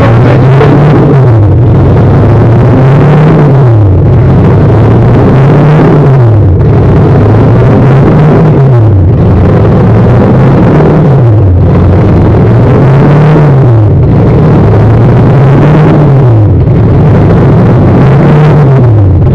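Toyota 1UZ-FE V8 engine revved up and down over and over, its pitch rising and falling smoothly about every two seconds; very loud.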